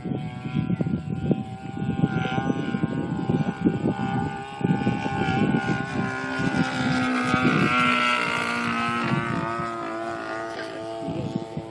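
DLE 30 single-cylinder two-stroke gas engine with a Keleo exhaust, running steadily in a radio-control P-51 in flight. It grows louder as the plane passes closer about eight seconds in, then fades. Wind rumbles on the microphone throughout.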